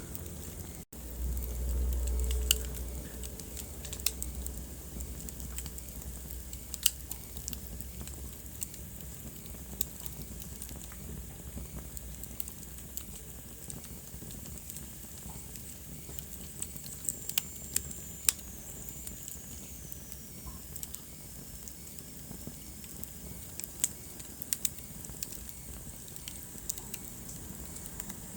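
Wood fire burning in a fireplace: a steady hiss with scattered sharp crackles and pops. A brief low rumble comes near the start, and a faint high whistle slides downward about two-thirds of the way through.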